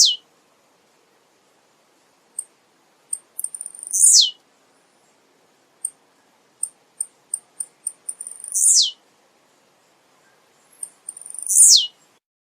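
Male blue-black grassquit (tiziu) singing: sparse, very high short chips, then three full songs, each a loud high note that slides sharply downward, roughly every three to four seconds.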